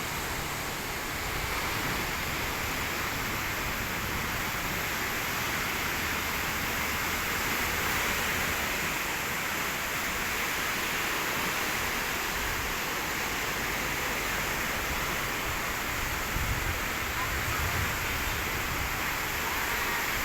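Steady rushing noise of sea surf, even and unbroken, with no distinct wave crashes.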